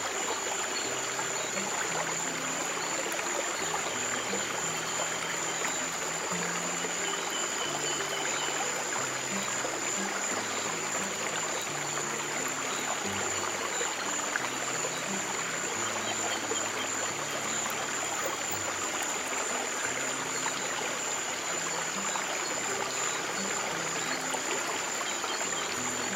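Flowing stream water, a steady rush and trickle, with slow, soft low notes held underneath and a thin steady high tone throughout.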